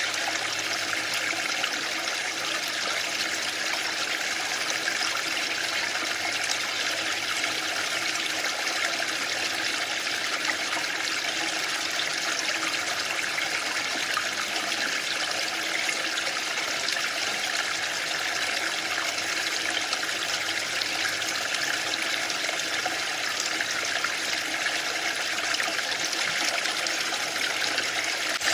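Waterfall: a steady, even rush of falling water with no swells or breaks.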